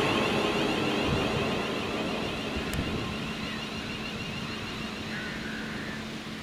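Class 350 Desiro electric multiple unit running away along the track, its wheel and traction noise fading steadily as it recedes. There is a brief tick about three seconds in.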